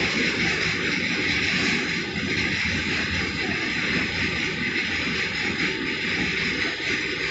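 Loaded freight train's covered hopper wagons rolling past: a steady noise of steel wheels running on the rails.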